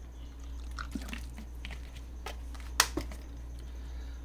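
Small plastic clicks and rustles as the parts of a plastic USB cup humidifier are handled, with one sharp click a little under three seconds in and a smaller one just after. A steady low hum lies underneath.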